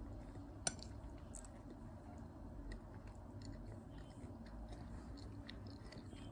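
Faint chewing close to the microphone, with small crunchy clicks and one sharper click under a second in.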